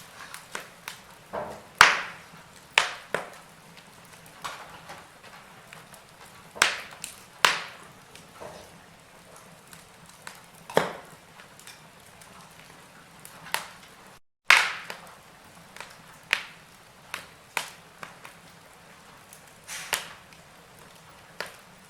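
Wood fire in a fireplace crackling, with irregular sharp pops and snaps over a low hiss; the sound drops out for an instant just before a loud pop about two thirds of the way in.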